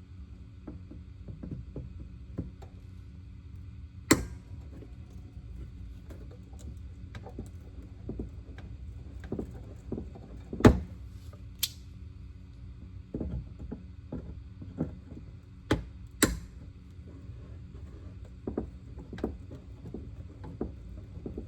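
Irregular clicks and small knocks of plastic trim clips and the plastic diffuser being pried and worked loose under a car's rear bumper, with a few sharp louder knocks scattered through, over a steady low hum.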